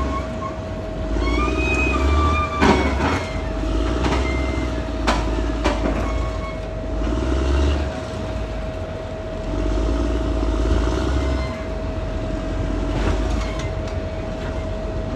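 Caterpillar D6R XL bulldozer's diesel engine working, its low drone swelling and easing every couple of seconds as the load comes and goes, over a steady whine. A few sharp knocks come about three seconds in and twice around five seconds in.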